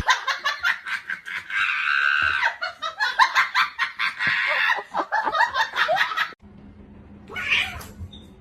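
High-pitched laughing in quick, choppy giggles for about six seconds, then it stops and only a faint low hum remains.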